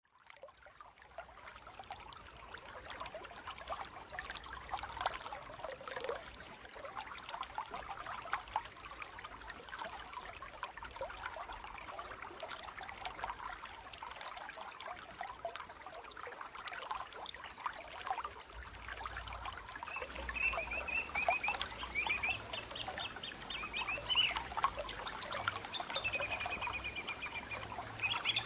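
Water trickling and babbling steadily, with a small bird chirping in quick high trills joining about two-thirds of the way through.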